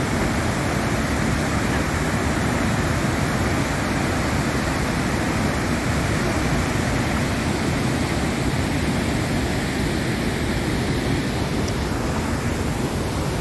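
Steady, loud rushing roar of Iguazu Falls: a huge volume of water plunging and crashing.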